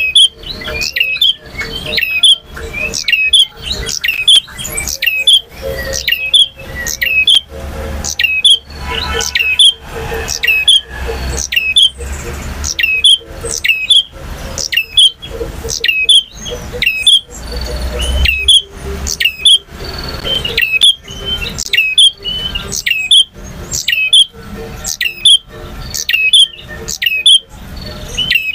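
Male prinia (prenjak) singing: a continuous run of sharp, high chirping notes, repeated more than once a second without a break.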